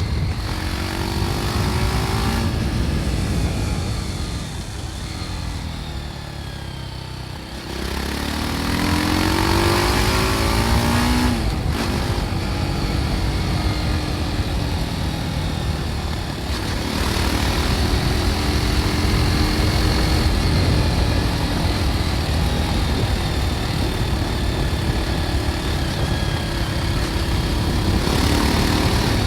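BMW G310 R's single-cylinder engine through its stock exhaust, riding along. The engine eases off with falling pitch about three to seven seconds in, then pulls hard with rising pitch. About eleven seconds in there is a gear change, after which it runs on and rises again.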